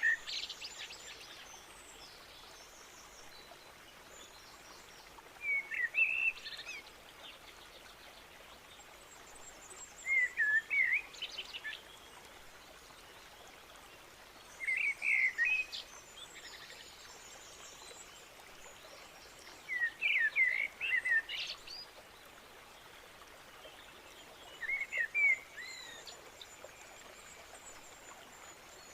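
A songbird repeating a short, quick chirping song phrase about every five seconds over a steady background hiss.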